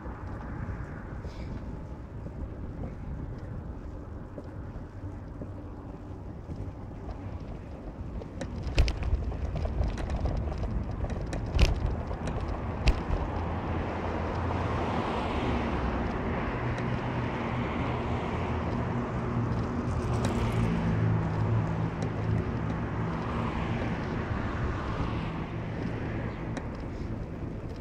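Car on the move: steady road and engine noise, with two sharp knocks about nine and twelve seconds in. From about halfway through, a steady engine hum comes up and grows louder.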